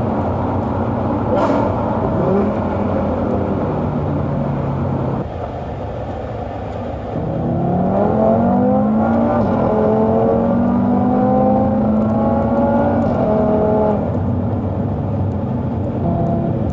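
Performance car engine running under load. The note dips briefly about five seconds in, then climbs steeply as the car accelerates hard, holds high for several seconds and eases off near the end.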